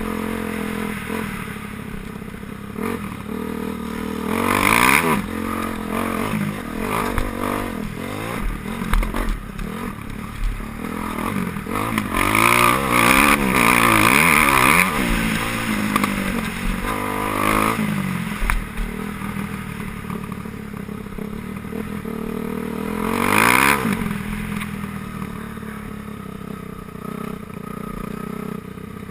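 Motocross bikes racing on a track, their engines revving up and down through the gears as they go past. Bikes pass loudest about five seconds in, again for a few seconds around the middle, and once more near the end.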